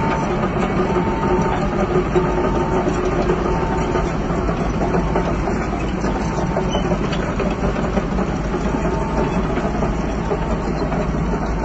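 Heavy diesel construction machinery running steadily, with a reversing alarm beeping at a little under once a second that stops about three-quarters of the way through.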